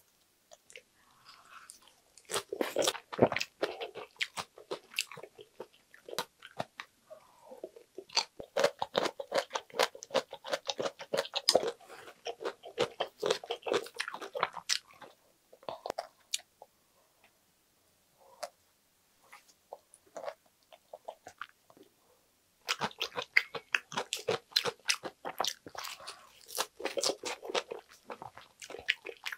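A person chewing a lettuce wrap of spicy stir-fried pork intestines (gopchang) with glass noodles: crisp crunches and wet, chewy mouth sounds in three spells with short pauses between.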